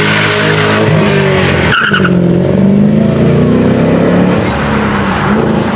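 Car engine revving hard, its pitch climbing and falling through several pulls, with a brief drop-out a little under two seconds in.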